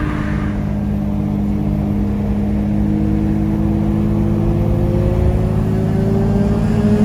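A car engine under steady acceleration, its note rising slowly and evenly over a constant low rumble.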